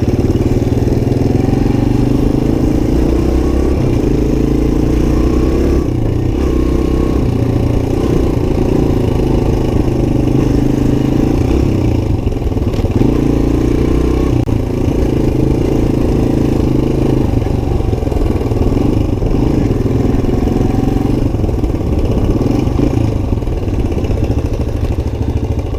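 Suzuki DR-Z125's single-cylinder four-stroke engine running under way, its revs rising and falling as the bike is ridden.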